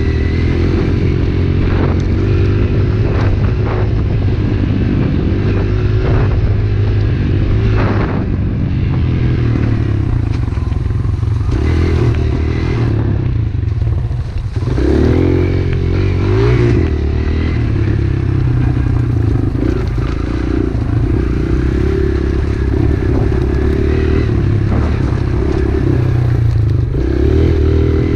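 Pit bike's small single-cylinder engine running under way, its revs rising and falling, with a short dip and climb about halfway through. Intermittent clattering and scraping is heard over the engine.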